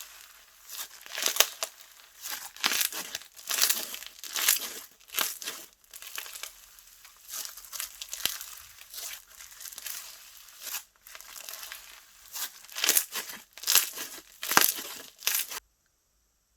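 Hands squeezing, stretching and pressing slime, giving irregular bursts of crackling, crinkling and tearing noise. It cuts off suddenly near the end.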